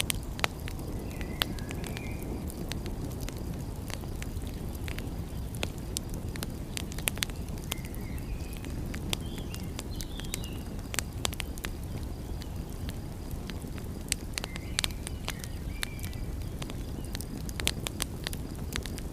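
Wood fire crackling with frequent sharp pops over a steady low rumble, with a few faint short chirps now and then.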